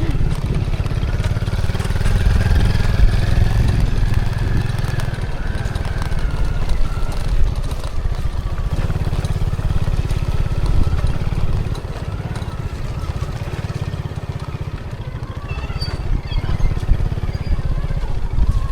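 Small motorcycle engine running while riding. It eases off about twelve seconds in and picks up again a few seconds later.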